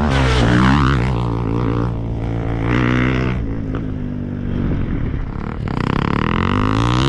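KTM EXC 350's single-cylinder four-stroke engine with an Akrapovič exhaust, running loud and revving. Its pitch falls and rises about half a second in, then climbs again near the end.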